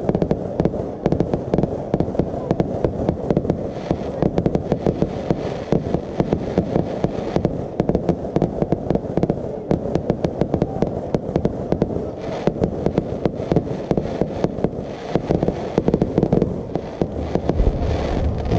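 Fireworks display: a dense, continuous barrage of sharp bangs and crackles, many per second, with no break.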